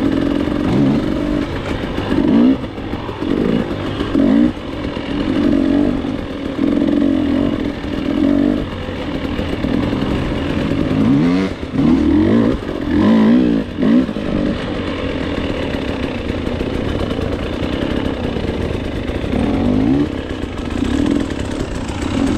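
Two-stroke KTM dirt bike engine being ridden hard. It revs up again and again, its pitch climbing with each burst of throttle and falling back between bursts.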